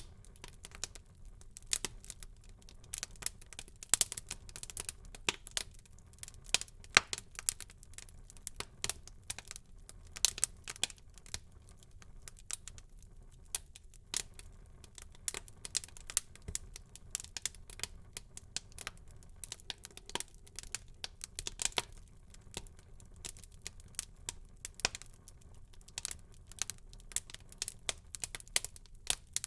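Wood fire crackling in a fireplace: frequent irregular sharp pops and snaps over a low, steady hiss and rumble of the burning.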